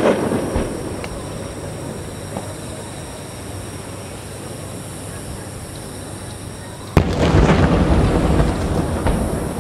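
Aerial fireworks shells bursting: a boom fading away at the start, then a sudden loud burst about seven seconds in, with a rumble that slowly dies down.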